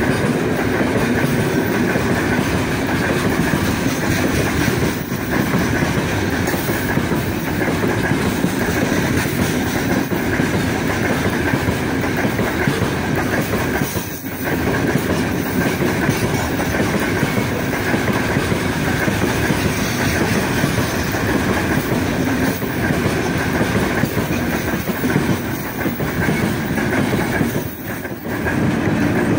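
Heavy freight train of open-top gondola wagons rolling past at close range: a steady rumble and clatter of wheels on the rails, briefly dipping a few times.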